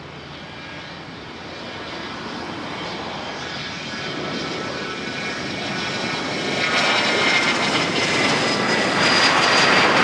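Jet aircraft engines growing steadily louder as the aircraft approaches, a high whine over a broad rush, the whine dipping slightly in pitch near the end.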